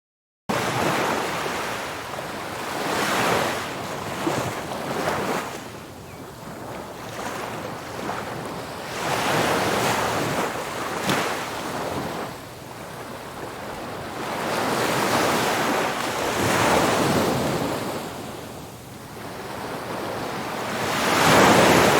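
Ocean surf breaking and washing up a beach, the noise swelling and falling away every few seconds as each wave comes in, with wind on the microphone.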